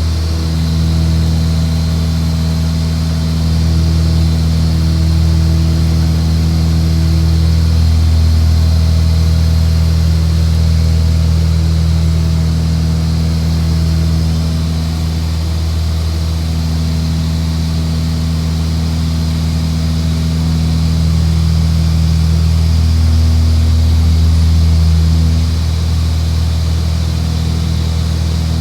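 Aircraft engine droning steadily at a constant pitch, with a deep hum and a few higher overtones, swelling and easing slightly in loudness.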